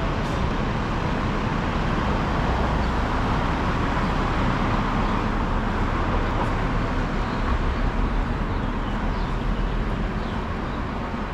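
Steady city street traffic noise: a continuous mix of passing cars and road rumble.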